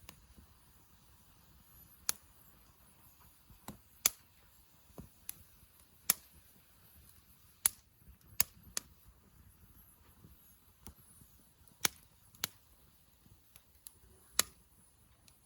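Wood campfire crackling, with sharp pops at irregular intervals over a faint low rustle.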